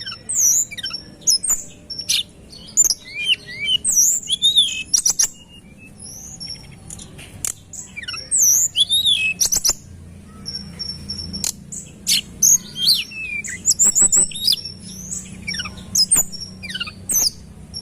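Tledekan gunung songbird singing a fast, dense run of high whistled notes, rising and falling glides and short trills in quick succession, with sharp clicks scattered among them.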